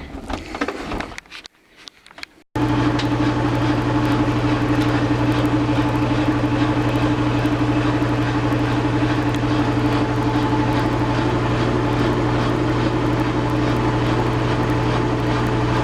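LG washing machine running its spin, a loud steady drone with a low hum, starting abruptly about two and a half seconds in after some irregular clattering.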